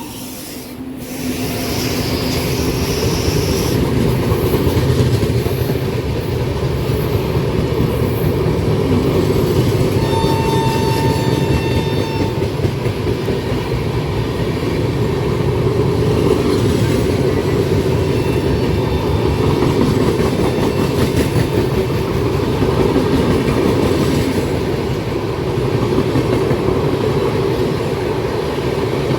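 Indian Railways train running through a station without stopping: a steady rumble with wheels clattering over rail joints. A horn sounds briefly about ten seconds in.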